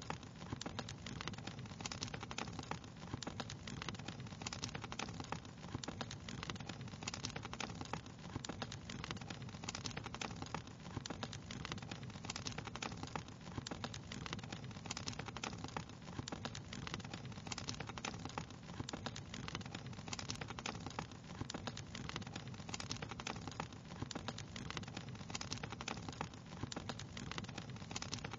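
Crackling wood fire: a dense, continuous stream of small pops and crackles over a steady low rumble of flames.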